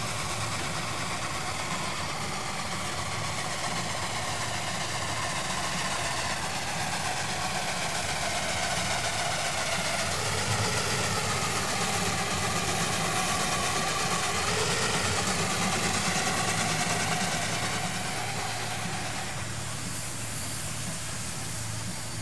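An engine running steadily at idle, a little louder for several seconds in the middle.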